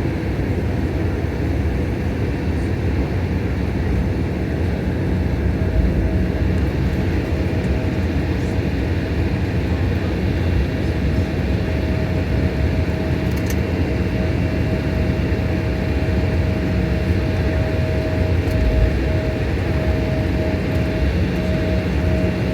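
Jet airliner's engines running during the takeoff, a steady loud rumble with a thin steady whine that comes in about six seconds in.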